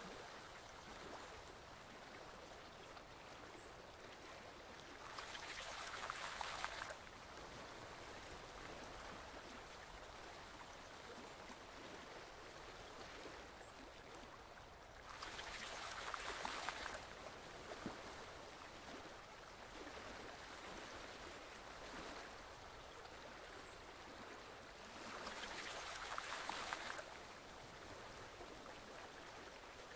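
Forest stream flowing gently, a faint, steady rush of water that swells louder for about two seconds three times, evenly spaced about ten seconds apart.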